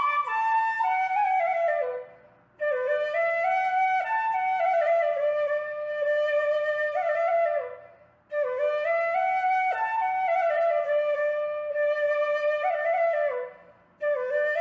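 Background music: a solo flute melody played in phrases of several seconds, with short breaks between them.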